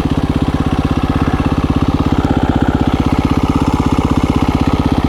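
KTM 350 EXC-F dirt bike's single-cylinder four-stroke engine running steadily at low revs, with a rapid, even pulse and no revving.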